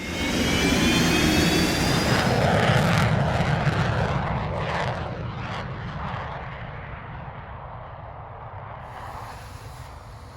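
Jet engine running loud with a high whine over its noise, then fading steadily away over several seconds.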